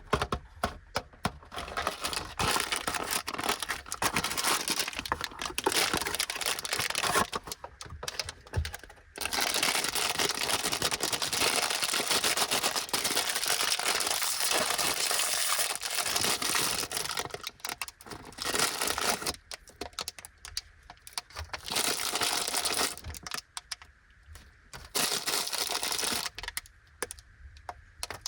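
Crinkly plastic snack packaging being handled and opened: a long stretch of dense crinkling in the middle, with short stop-start rustles and brief pauses before and after.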